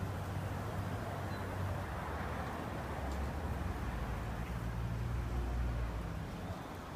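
Outdoor breeze and rustling with a low, steady vehicle-like hum underneath that swells a little past the middle.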